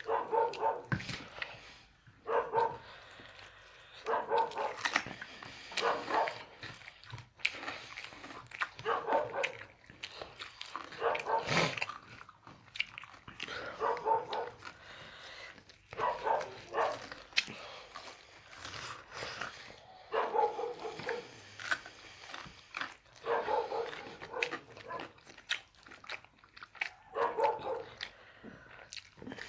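A dog eating, biting and chewing its food, with a short pitched vocal sound every two or three seconds.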